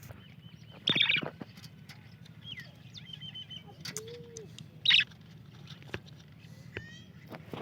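Budgerigars chirping and chattering, with loud, sharp calls about a second in and again near five seconds, over a steady low hum.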